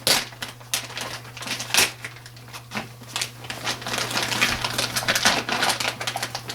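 Plastic packaging crinkling and crackling as it is torn off a rawhide dog bone: irregular sharp crackles that turn into a dense run near the end, over a steady low hum.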